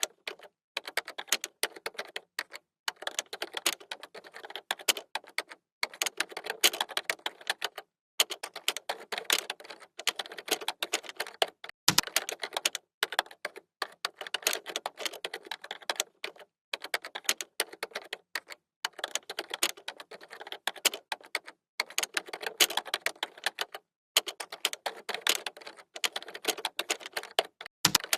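Fast typing on a computer keyboard: dense runs of key clicks, broken by brief pauses every few seconds.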